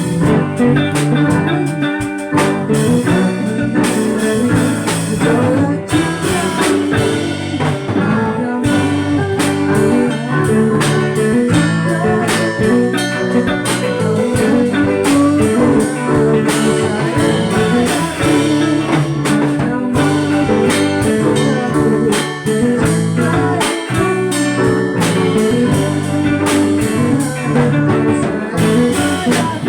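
A band playing live: guitar over bass notes with a drum kit keeping the beat, continuous and loud.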